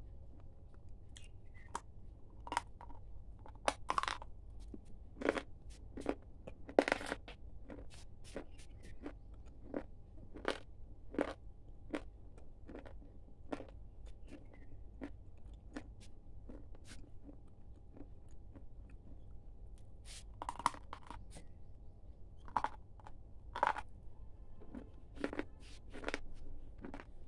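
Close-up biting and chewing of crunchy snack sticks: irregular sharp crunches, bunched together in the first few seconds and again in the last several, with sparser chewing in between.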